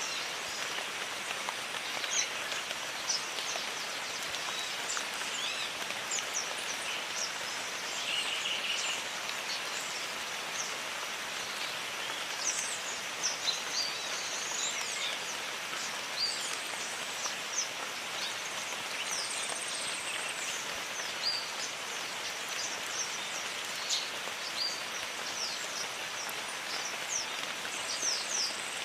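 Steady rain falling, with many short, high bird chirps scattered throughout.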